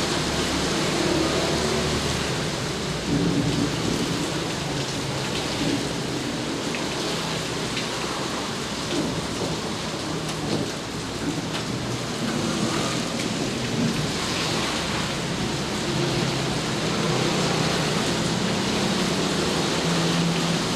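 Steady rain falling, with low thunder rumbling underneath.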